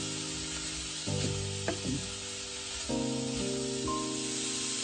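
Diced ham, carrot and celery sizzling in oil in a frying pan as a wooden spatula stirs them, with a few short scrapes of the spatula against the pan between one and two seconds in.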